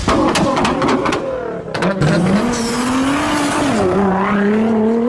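Car engine revving under load, its pitch rising, dipping about four seconds in, then holding steady, with a few sharp cracks in the first two seconds.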